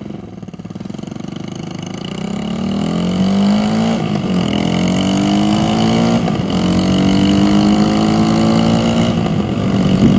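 Motorcycle engine pulling away and accelerating, its pitch climbing in each gear and dropping at upshifts about four and six seconds in and again near the end.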